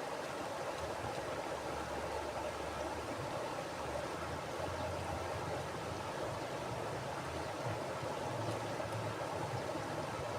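Mountain river flowing over rocks: a steady rushing and burbling of water with a low rumble underneath.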